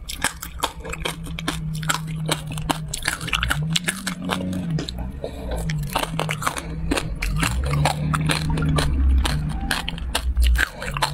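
Close-up crunching and chewing of a candy stick coated in small crispy grains: many sharp crackles as it is bitten and chewed, with a low closed-mouth hum from the eater now and then.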